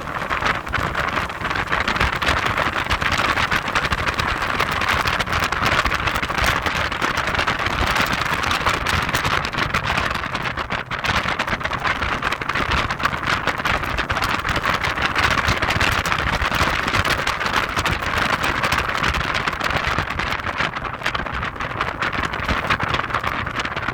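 Heavy wind buffeting the microphone of a moving Audi TT: a dense, steady rushing noise full of rapid crackling buffets that mostly covers the car's own sound.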